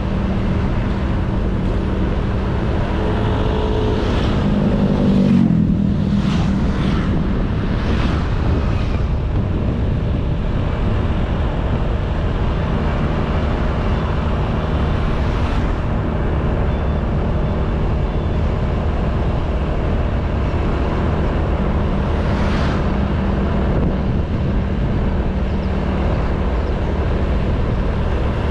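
Honda Beat 110cc scooter's single-cylinder engine running while riding, under a steady rush of wind and road noise. The engine note rises briefly about five seconds in, then settles back to a steady cruise.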